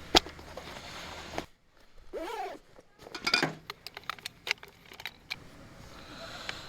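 Sharp clicks and light metallic clinks of small objects being handled, with a brief drop to near silence about a second and a half in before a quick run of clicks.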